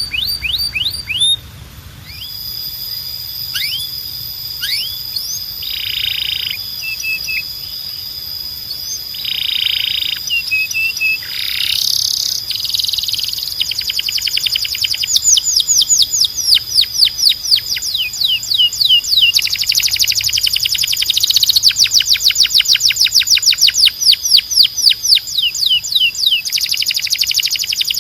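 Domestic canary singing a long, varied song of quick down-slurred notes, held whistles and buzzy rolls. From about halfway through, the notes run together into fast, continuous trills.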